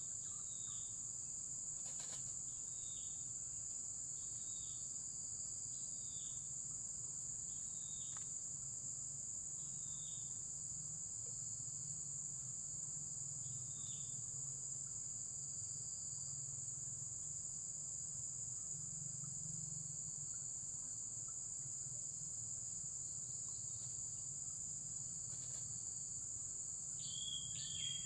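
Steady, continuous high-pitched insect trill. Over it a bird gives a short falling call every second or two through the first half, and a quick run of similar notes comes near the end, with a faint low rumble underneath.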